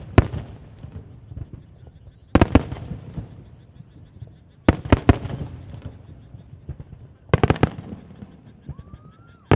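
Aerial firework shells bursting: sharp echoing bangs, one or several at a time, about every two to three seconds, with a low rumble between them. A short rising whistle sounds just before the last bang.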